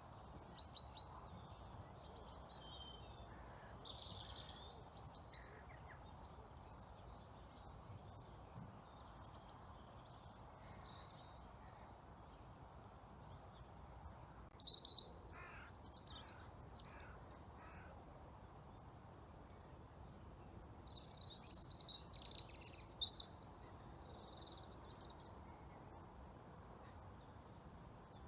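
Woodland ambience: a faint steady hiss under scattered bird calls, with a brief louder call about fifteen seconds in and a louder run of calls lasting a couple of seconds from about twenty-one seconds in.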